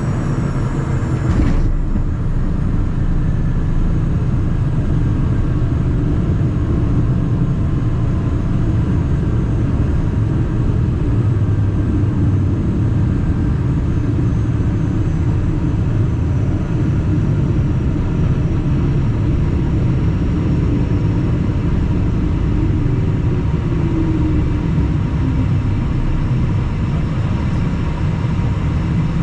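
Steady low rumble of cabin noise inside a Cessna Citation Mustang light jet with its engines running, airflow and engine noise together, with a faint steady whine above it.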